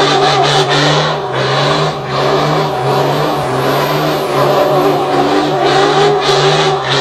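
Scania 111S truck's six-cylinder diesel engine running at a steady, loud pitch that wavers slightly up and down.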